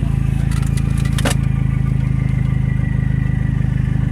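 Car engine running at steady revs, a low, even drone heard from inside the moving car, with a short click about a second in.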